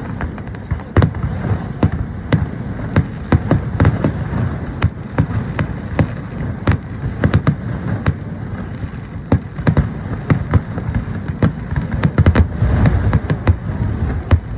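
Fireworks going off in a rapid, irregular string of sharp bangs and pops, several a second, over a steady low rumble.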